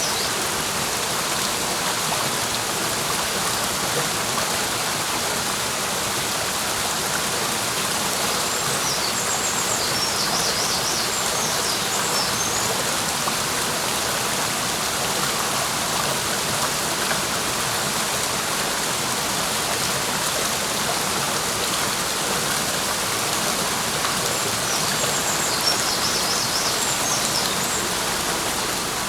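Clear mountain stream rushing steadily over rocks. A small bird sings two short bursts of quick high notes, about a third of the way in and again near the end.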